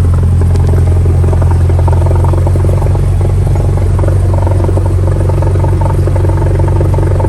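Steady, loud drone of a small aircraft's engine heard from inside the cabin.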